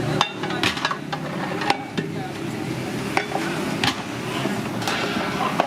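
Busy street-food stall ambience: irregular sharp clinks and knocks of metal cooking utensils over a steady hum and traffic noise.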